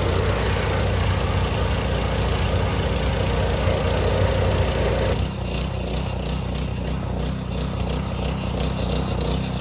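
Hot water pressure washer running, its engine humming steadily under the loud hiss of the high-pressure spray. A little over five seconds in the spray hiss stops suddenly and the engine runs on alone.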